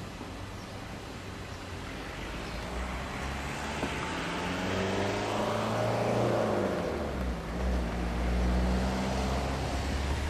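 Car engine running with a steady low rumble; about four seconds in its pitch climbs as it accelerates, then drops back and settles.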